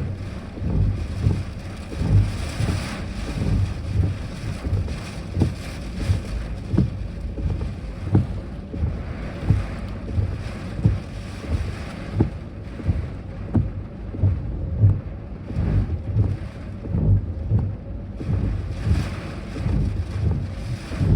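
Strong, gusty typhoon wind buffeting the microphone, a low uneven rumble that surges and eases every second or so, with a few short light knocks.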